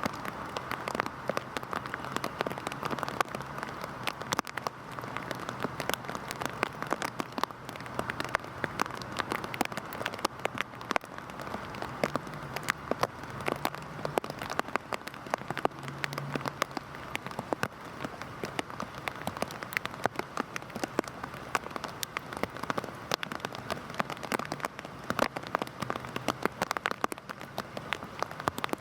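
Heavy rain falling steadily, a continuous hiss full of many sharp, close drop impacts on a surface, with a faint low hum underneath.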